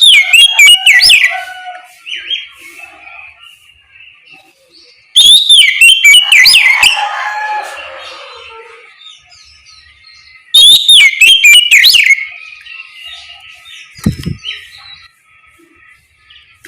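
Oriental magpie-robin singing its loud, clear full song: three bursts of rapid whistled notes sweeping up and down, about five seconds apart, with softer notes between. A short low thump near the end.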